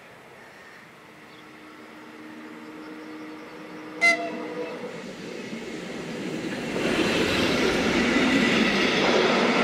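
A České dráhy electric locomotive with a passenger train approaching and passing, growing steadily louder. It gives one short, sharp horn blast about four seconds in. From about seven seconds the coaches roll by with a loud rumble and wheel clatter.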